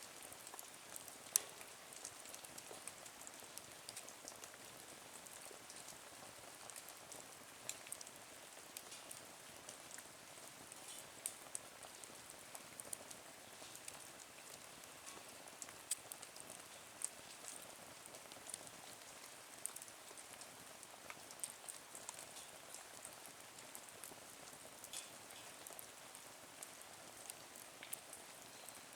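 Wood fire burning in a small Nature Stove, crackling faintly with scattered sharp pops, the loudest about a second in, over a soft steady hiss.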